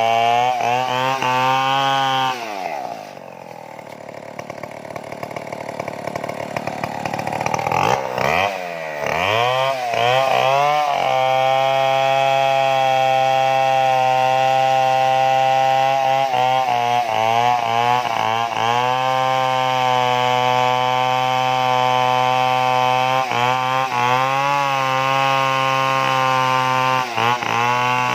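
Stihl chainsaw at full throttle. About two seconds in its revs drop and it runs quieter for a few seconds, then revs back up around eight to ten seconds in and holds high revs steadily, with a few brief dips.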